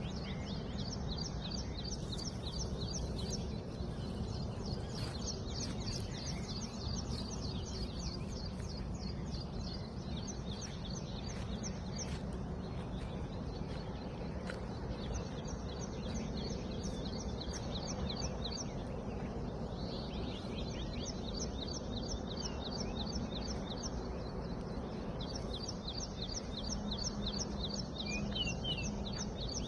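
Small birds chirping in runs of rapid, high-pitched chirps with short breaks, over steady low background noise.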